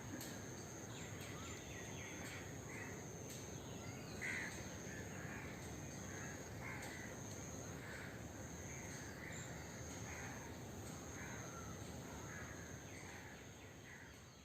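Birds calling in a steady series of short, harsh calls, about one or two a second, over a continuous high-pitched whine and background hum; the sound fades out at the end.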